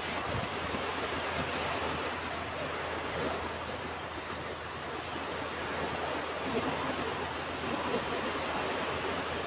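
Ocean waves washing on a beach: a steady surf hiss that swells and eases a little.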